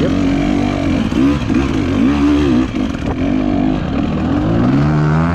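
Dirt bike engine being worked on a technical trail, revved in repeated throttle blips that rise and fall about once a second; near the end the revs climb and hold higher.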